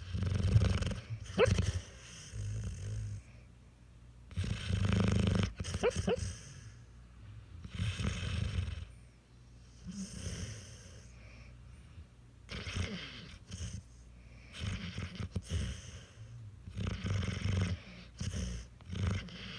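A sleeping puppy snoring, with a snore about every two to three seconds. Some snores carry a thin whistle.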